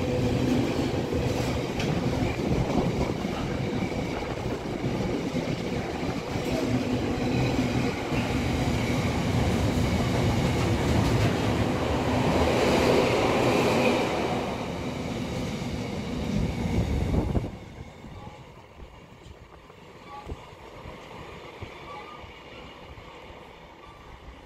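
Intermodal container freight train's wagons passing at speed, with a heavy rolling rumble and clatter of wheels on the rails. About two-thirds of the way in the sound drops off abruptly to quiet station background.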